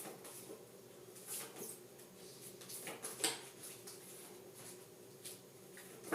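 Faint rustles and light clicks of paper flashcards being handled and shuffled, a few seconds apart, over a steady low room hum.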